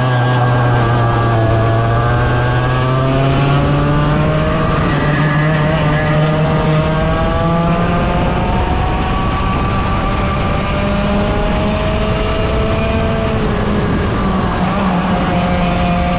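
Several 100cc racing kart engines running hard, their pitch sliding down and climbing again over a few seconds as the karts brake and accelerate, with one lower engine tone holding steadier underneath.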